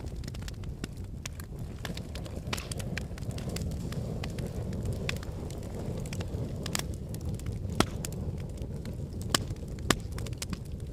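Wood logs burning in a fireplace: a steady low rumble of flames under constant crackling, with a few sharper pops, one about eight seconds in and two more near the end.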